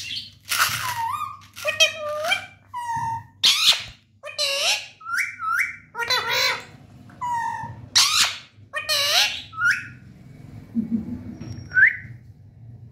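Indian ringneck parrot calling: a series of short, high-pitched calls that glide in pitch, about one a second, going quieter near the end apart from one short rising note.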